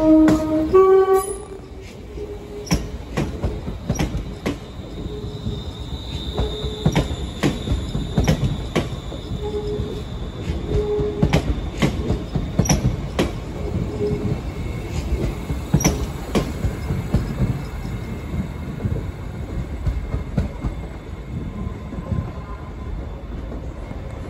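ScotRail class 380 electric multiple unit pulling out and passing close. It sounds a short two-note horn as it starts, then its wheels give a run of sharp clicks over points and rail joints, with a high wheel squeal on the curves and a steady low rumble.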